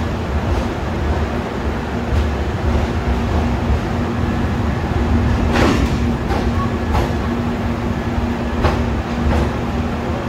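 AC Duronto Express passenger train rolling slowly out of a station: a steady low rumble with a constant low hum, broken by a handful of sharp clicks, the loudest just over halfway.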